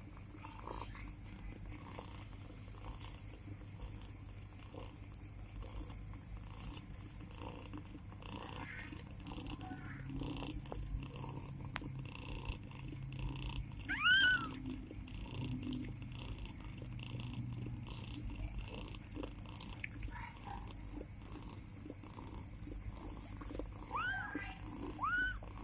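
Mother cat purring steadily while her newborn kittens nurse, with small suckling clicks. A kitten gives a short high mew about halfway through, and several more mews come near the end.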